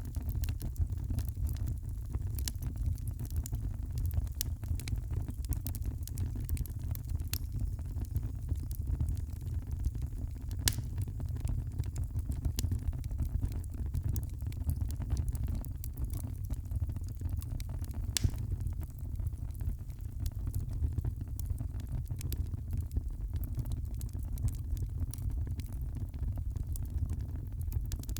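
Wood fire crackling in a fireplace: a steady stream of small pops and snaps, with a couple of louder snaps, over a low, steady rumble.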